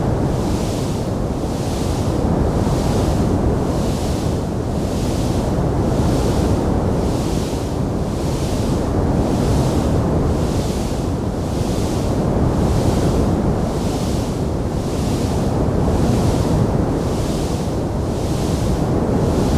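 Wood fire burning in a stone fireplace: a steady, dense rushing noise, with a high hiss that swells and fades about once a second.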